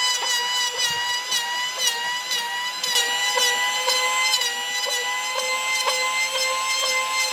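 Electric power tool motor running with a steady whine while working wood, with regular ticks about two a second.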